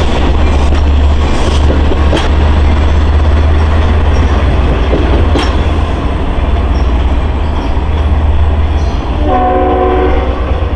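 LIRR DM30AC diesel locomotive and train running past close by, with a steady low engine drone, rail noise and a few sharp clicks from the wheels. Its chord horn sounds a long, steady several-note blast about nine seconds in.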